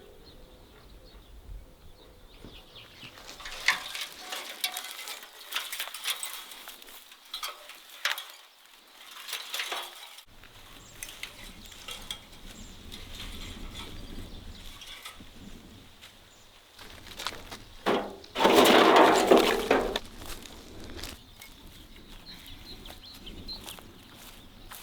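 Axe striking and splitting firewood: scattered sharp knocks of the blade on wood, with a louder clatter lasting about a second and a half around two-thirds of the way in.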